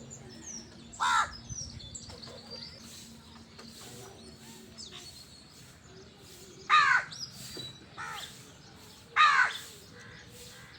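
Crows cawing: single loud harsh caws about a second in and again three times between about seven and nine and a half seconds, the third one softer, with faint small bird chirps between them.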